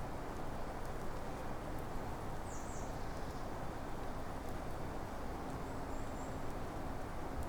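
Steady forest ambience: an even rushing noise with a few faint, high bird chirps, including a short quick run of notes about two and a half seconds in.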